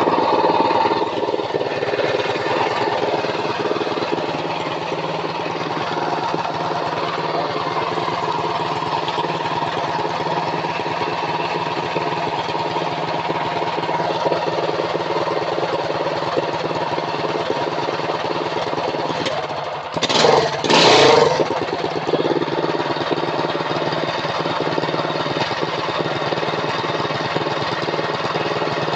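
Rebuilt Predator 212 single-cylinder four-stroke minibike engine, with a .308 cam and a 26 mm PWK carburetor, running steadily. It gets briefly louder about twenty seconds in.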